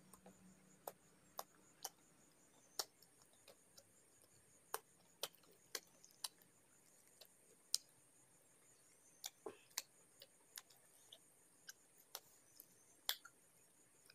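Close-up chewing of a mouthful of rice: irregular sharp, wet mouth clicks and lip smacks, one or two a second, over near silence.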